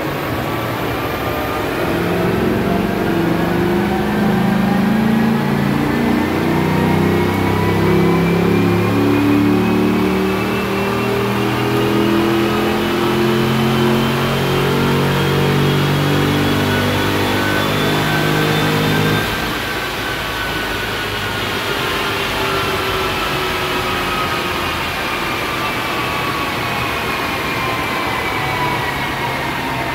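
2005 Cadillac CTS-V's LS6 V8 in a full-throttle dyno pull, its engine note and a whine rising steadily with road speed. About two-thirds of the way through the throttle closes: the engine note drops away and the whine falls as the car coasts down on the rollers.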